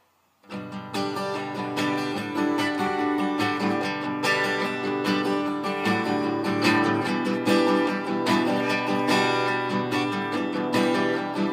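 Acoustic guitar strummed in a steady rhythm, the instrumental intro to a song, starting about half a second in.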